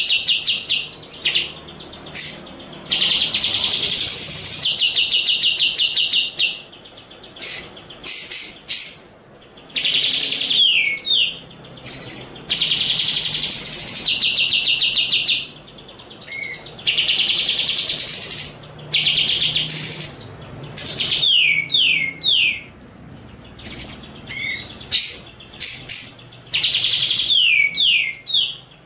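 Recorded songbird singing in repeated phrases: fast, rattling high trills a second or more long, alternating with quick falling whistled notes and short pauses.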